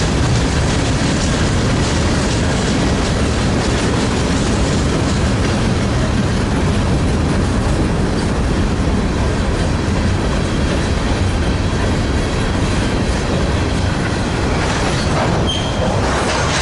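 Freight train cars rolling past on the rails, a steady loud rumble with wheel clatter. A brief high wheel squeal comes near the end.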